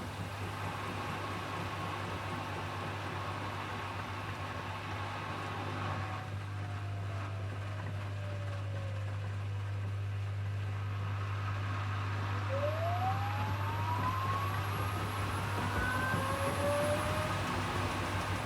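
Hoover HW411AMC washing machine in its final spin: a steady low hum with a motor whine that slides down in pitch about six seconds in, then rises steadily from about twelve seconds in as the drum speeds up again.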